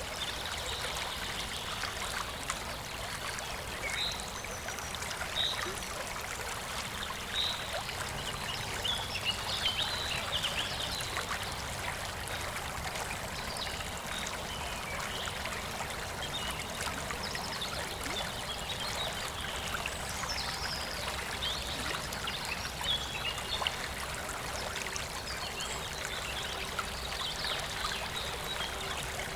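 Clear river water flowing and trickling steadily, with many short, high plinks scattered through it.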